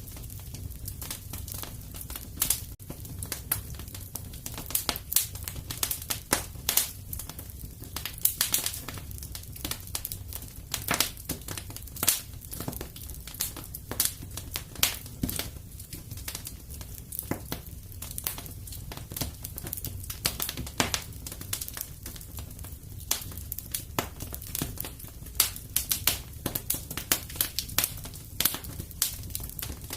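Fireplace fire crackling, with irregular sharp pops several times a second over a low steady rumble.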